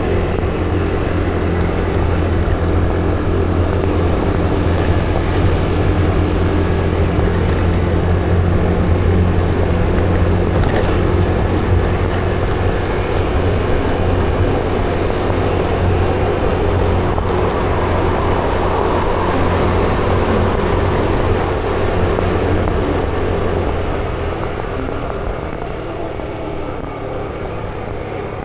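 Motorcycle engine running steadily while riding, with a deep hum and road noise, easing off gradually near the end.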